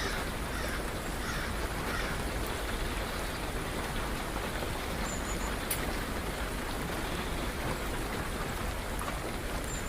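Steady rain falling, with a few faint, short high bird chirps.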